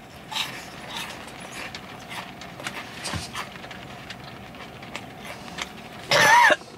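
Close-up chewing of a crispy mini donut: irregular soft crunches and wet mouth clicks. Near the end comes a short vocal sound of delight with a wavering pitch.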